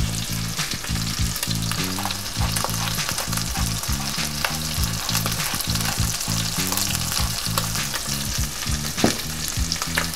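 Chicken breasts searing in butter and grapeseed oil in a hot cast-iron skillet, sizzling steadily with scattered sharp pops from water in the butter. A low, pulsing hum sits underneath.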